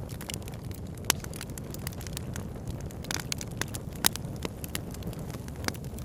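Wood campfire crackling, with sharp pops coming at irregular moments, the loudest about a second in and about four seconds in, over the steady rushing of a river.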